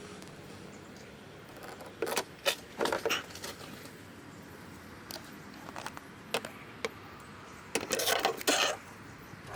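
Small hard parts clicking and rattling as they are handled, in two short clusters, about two seconds in and again about eight seconds in, with a few single clicks between.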